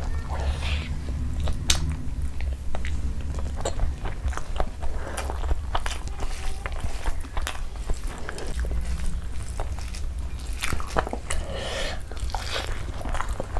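Close-miked chewing of a mouthful of rice and curry, with frequent short wet clicks and smacks of the mouth, and fingers squishing curried rice on the plate. A low steady hum runs underneath.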